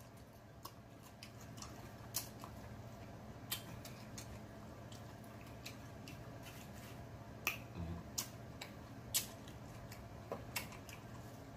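A person chewing food close to the microphone: scattered, irregular wet mouth clicks and lip smacks over a faint steady hum.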